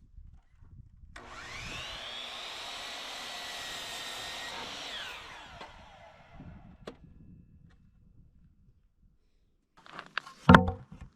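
Electric power saw spinning up to a steady high whine, running for about three seconds while cutting 2x4 lumber, then winding down. Near the end come a few sharp wooden knocks, one loud clack among them.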